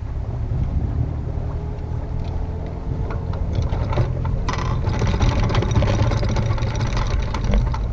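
Wind rushing over the microphone aboard a small sailboat under way, with a steady low rumble of wind and water. About halfway through, a run of small clicks and knocks starts up.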